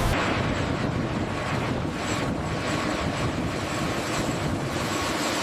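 Steady engine or machinery noise, an even rush with a faint high whine held on top.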